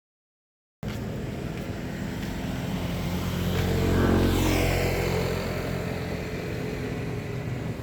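A motor vehicle passing close by over a steady engine hum: the sound starts abruptly about a second in, swells to its loudest about three seconds later, then falls in pitch as the vehicle moves away.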